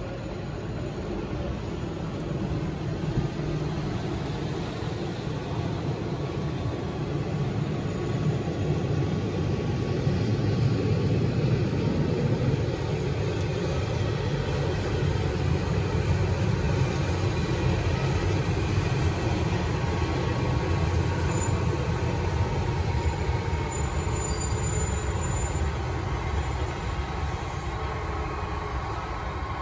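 Matterhorn Gotthard Bahn metre-gauge train rolling slowly past, pushed by a Deh 4/4 electric motor car at the rear: a low rumble of wheels on rails that swells as the coaches pass and eases slowly as the motor car comes by, with a few faint thin tones above it.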